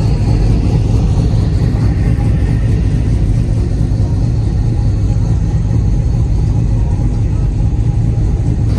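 Car engines running with a steady, loud low rumble, with voices underneath.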